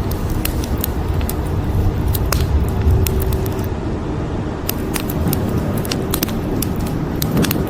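Wood fire crackling, with frequent sharp pops and snaps scattered irregularly over a dense low rumble that swells about two to three seconds in.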